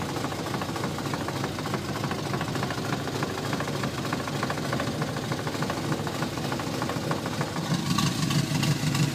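Triumph TR4's four-cylinder engine idling steadily with an even beat.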